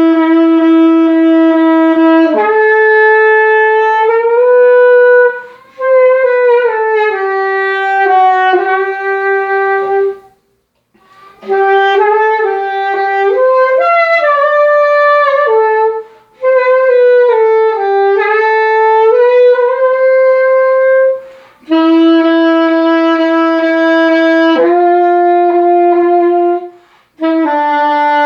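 Solo saxophone playing a slow hymn melody in sustained, phrased notes, with short breath pauses between phrases.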